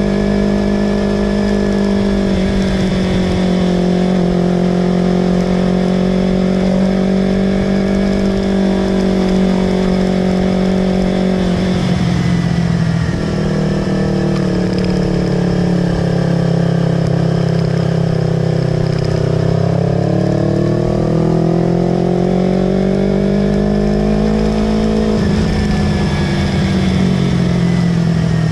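Yamaha R25's 250 cc parallel-twin engine running through a Villan Pro 2 aftermarket exhaust, holding high, steady revs. The pitch wavers slowly, drops suddenly about twelve seconds in and again near the end, and climbs back up in between.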